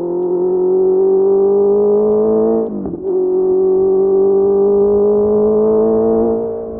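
Honda CBR650R's inline-four with a Mivv MK3 exhaust pulling under acceleration, its pitch climbing steadily. About three seconds in it breaks briefly for an upshift and then climbs again from a lower pitch, easing off near the end.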